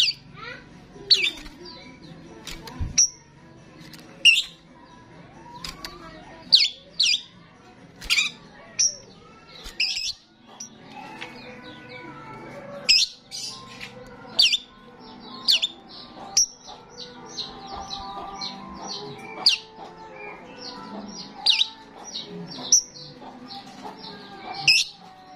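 Starling in full song: a long string of sharp, high whistles and chirps, loud ones every half second to a second, over a fainter continuous chatter.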